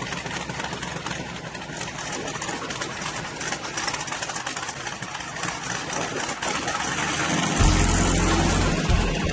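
Shelby Cobra 427's big-block V8 running at idle, then revving up with a loud, deep swell about three-quarters of the way through.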